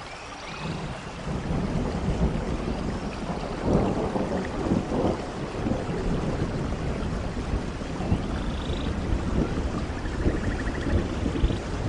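Steady rain falling in a rainforest, with a low rumble of thunder swelling about a second in and rolling on. A few faint high chirps sound over the rain.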